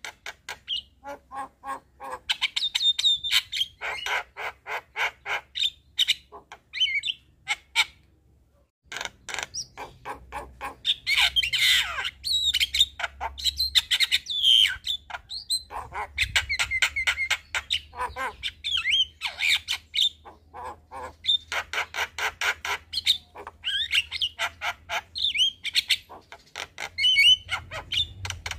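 Javan myna (jalak kebo) song: fast runs of short repeated notes mixed with chattering and whistled notes, broken by a pause of about a second some eight seconds in.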